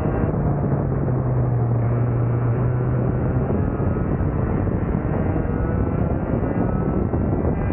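Yamaha KT100SS two-stroke racing-kart engine running steadily during break-in laps. A strong low steady tone is held for the first few seconds, then fades into the engine noise.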